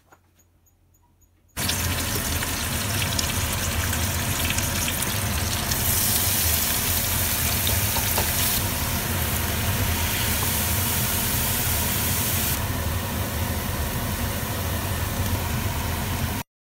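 Steady hiss and crackle of onions, seeds and chicken frying in hot oil in a cooking pot. It starts suddenly about a second and a half in and cuts off abruptly just before the end.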